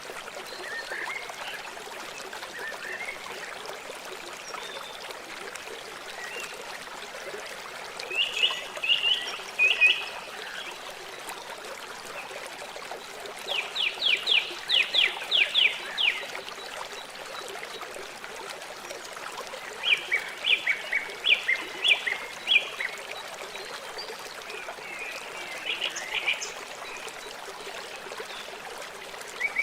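A river flowing steadily, with the even rush of water. Over it, short trains of rapid, sharp chirping calls come four times, about every six seconds.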